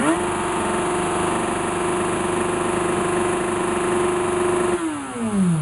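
Motorcycle engine revved sharply and held at a steady high rev for a decibel test, then the revs fall away toward idle in the last second or so.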